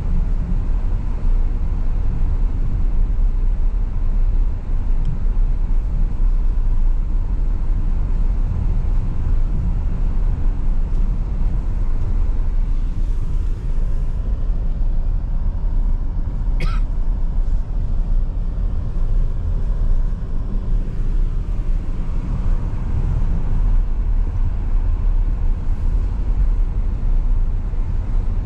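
Steady low rumble of a car driving, road and engine noise. A brief high squeak about two-thirds of the way through.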